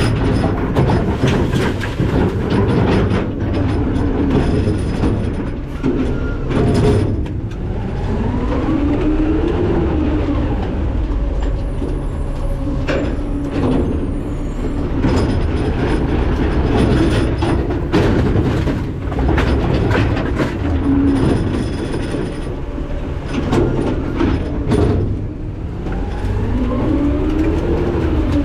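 McNeilus ZR rear-load garbage truck at the hopper: the truck running with a deep rumble, frequent metal clanks and knocks, and a whine that rises and falls twice, about a third of the way in and near the end.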